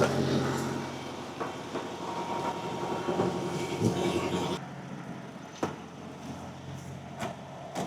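Semi-truck diesel engine idling with a steady low hum that fades during the first seconds; about four and a half seconds in the sound drops suddenly to a quieter background, followed by a few sharp knocks.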